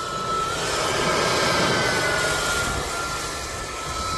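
A machine running steadily: an even rushing noise with a thin high whine that rises a little in pitch and swells in loudness for a couple of seconds, then settles.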